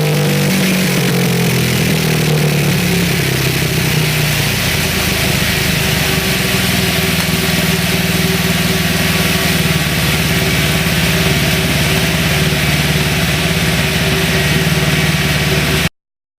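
Suzuki DR-Z400SM's single-cylinder four-stroke engine, breathing through a Yoshimura Mikuni TMR-MJN carburettor and a Yoshimura twin-outlet exhaust, running on a chassis dynamometer. The pitch settles a little lower in the first couple of seconds, then holds steady; the sound cuts off suddenly near the end.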